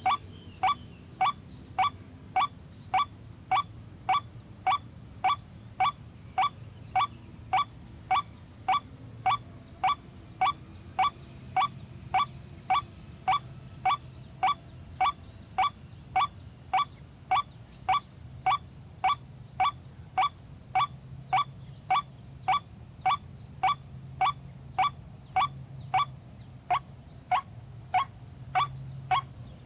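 White-breasted waterhen (ruak-ruak) call: a short, pitched note repeated about twice a second at a steady, unbroken pace.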